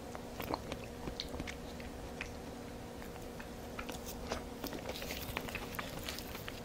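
Close-miked chewing of a mouthful of rice and curry, with many small wet smacks and clicks throughout. A faint steady hum lies underneath.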